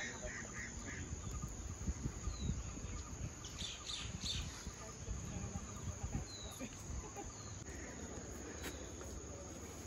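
Outdoor hilltop ambience: small birds chirp now and then in short bursts over a low rumbling background.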